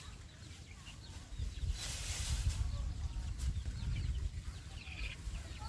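Birds chirping in short calls over a low rumble that swells about a second in.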